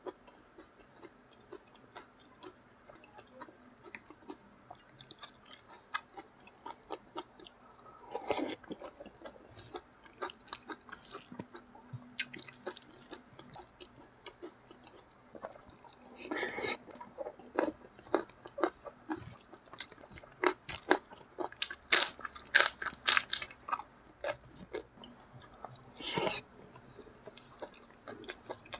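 Close-miked eating: a person chewing and crunching mouthfuls of food, rice and side dishes eaten by hand, with soft wet mouth clicks throughout and a few louder crunching bursts, the loudest about two-thirds of the way through.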